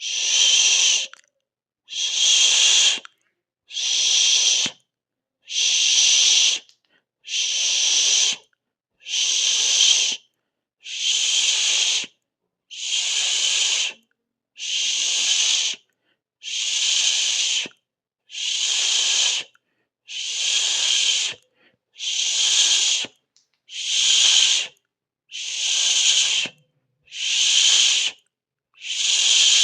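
A 'shh' hiss repeated in even pulses, each about a second long with a short silent gap, roughly one every two seconds.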